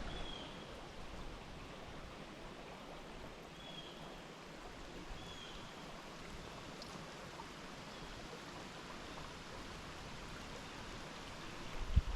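River water running steadily over a shallow rocky bed, an even rush. A few short, faint high chirps sound now and then over it.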